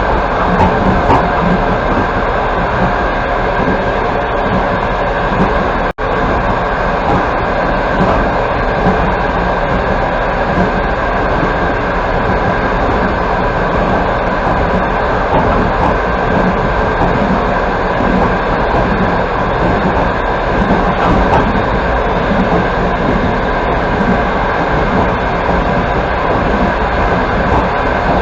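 Steady running noise of a passenger train, heard from inside the carriage: wheels on the rails and the car body rumbling. The sound cuts out for a split second about six seconds in.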